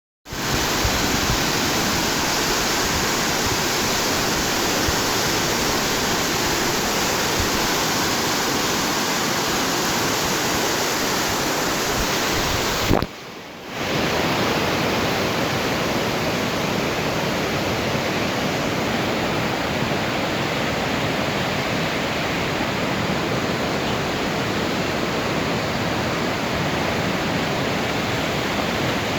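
Steady rush of fast-flowing water, most likely a stream swollen by storm floodwater. It drops out suddenly for about a second around the middle, then resumes.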